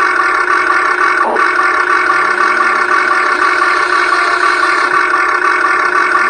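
Steady, loud whine of the Huina 1580 RC excavator's electric motors running, with a brief change about a second in and small shifts in pitch as the motors take load.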